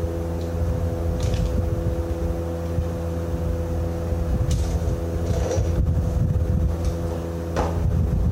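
An engine or motor running steadily with a constant hum, with a few short clicks or knocks about a second in, in the middle, and near the end.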